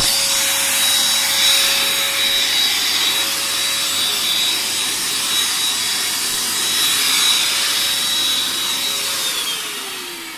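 Small 800-watt handheld vacuum cleaner running steadily with a whining motor, then switched off near the end, its whine falling in pitch as the motor winds down.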